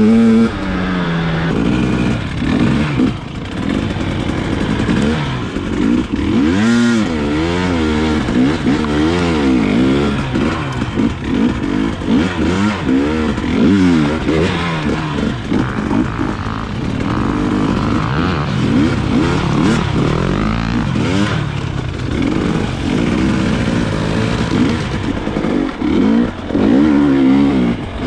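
Dirt bike engine under way on a trail ride, its pitch rising and falling again and again as the throttle is opened and closed.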